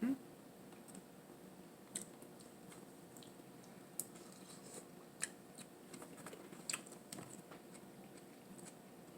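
Faint eating sounds: scattered small clicks and smacks of a person chewing and handling seafood-boil food, a few seconds apart, over a faint steady hum.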